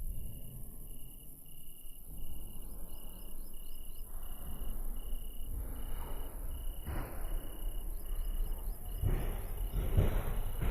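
A cricket chirping in a steady, evenly pulsed rhythm a little more than once a second, over a low background rumble.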